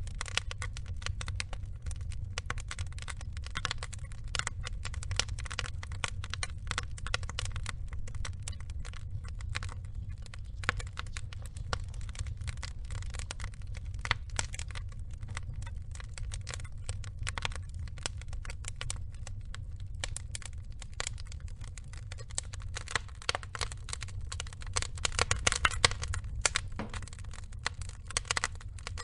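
Wood fire crackling steadily: logs burning, with dense irregular snaps and pops over a low rumble of flame, and a burst of louder crackling about three-quarters of the way through.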